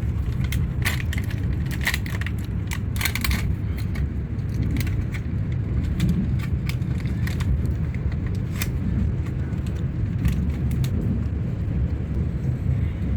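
Passenger train running, heard from inside the carriage: a steady low rumble with scattered clicks and rattles.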